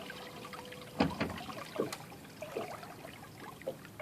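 A sharp clank from the lower unit of a 2014 Suzuki 250 HP outboard about a second in, then a few fainter knocks, over water lapping at the hull. The clank comes after the key is turned off in neutral: the shift mechanism searching for neutral, which the Suzuki rep calls normal for this engine. A faint steady tone runs until the clank and stops with it.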